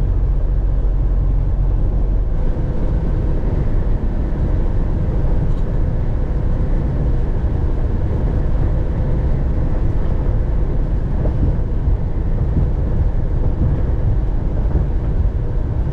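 Steady low road-and-engine rumble of a semi truck on the move, unbroken and without changes in pitch.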